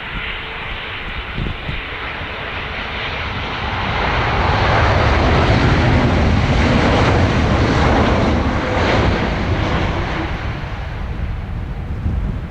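Jet noise from an Airbus A340-300's four CFM56 turbofans as the airliner passes on arrival. It swells to a peak a few seconds in, then slowly fades.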